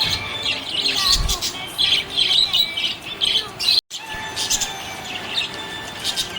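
Budgerigar chirping and warbling: a busy, continuous run of short high chirps, breaking off for an instant just before four seconds in.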